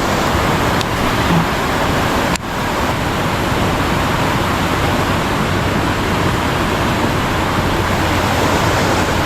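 Steady, loud rushing of flowing creek water, swollen after rain, with a brief break about two and a half seconds in.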